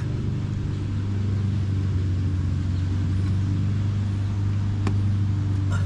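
A steady low mechanical hum from a running machine, even in pitch throughout, with a couple of faint sharp clicks near the end.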